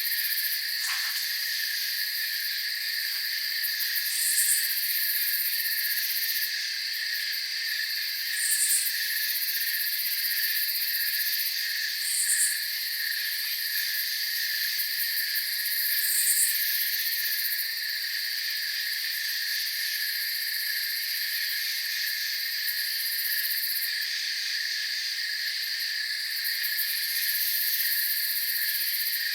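A chorus of crickets and other night insects trilling steadily, with one fast pulsing trill under several higher continuous ones. A short, very high chirp repeats about every four seconds through the first half.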